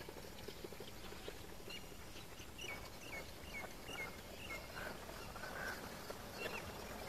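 Faint bird calls: a run of short, high chirps, each dropping at the end, about two a second for a few seconds, then a couple of lower calls.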